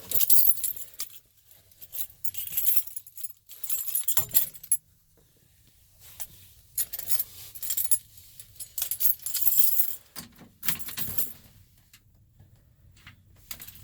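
A bunch of keys jangling in repeated short bursts with brief pauses between, as they are pulled out of a pocket and handled.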